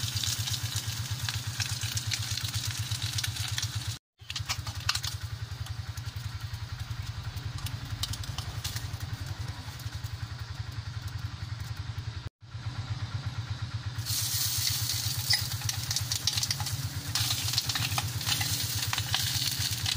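Slabs of pork skin sizzling in a hot pan as they are seared and turned with metal tongs, with scattered clicks of the tongs; the sizzle grows louder about two-thirds of the way through. Under it runs a steady low, rapid throb like a small engine running.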